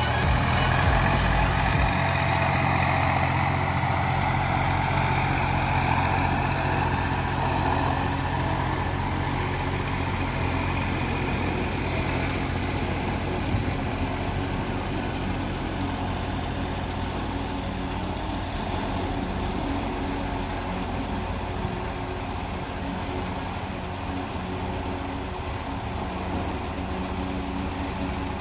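Massey Ferguson 245 DI tractor's diesel engine running steadily, slowly growing fainter.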